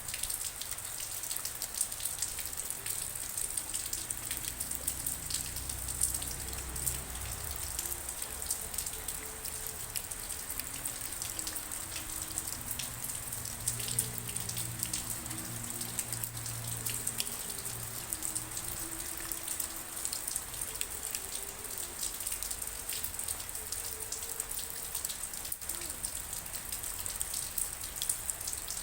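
Steady rain, dense raindrops pattering and dripping on a surface. Faint low held tones run underneath through most of the stretch.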